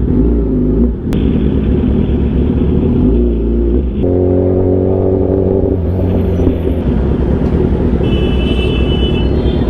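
Motorcycle engine running on the road, with a continuous low rumble and a steady engine note that holds for a couple of seconds midway.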